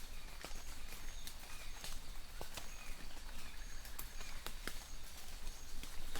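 Light rain falling in a forest: a steady hiss with many scattered sharp drips, and faint birds chirping in short, repeated high notes.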